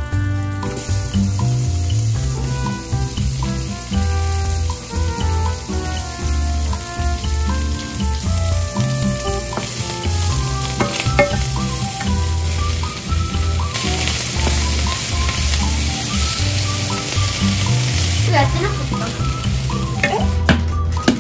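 Butter, then sliced sausage, onion and spinach sizzling in a nonstick frying pan and stirred with a wooden spatula, with a few light clicks of the spatula. Background music with a steady bass line plays underneath.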